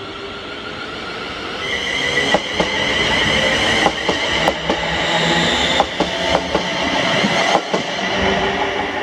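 Train running through the station, its wheels clicking irregularly over rail joints and pointwork, with a high wheel squeal that starts about two seconds in. The sound builds, then eases off near the end.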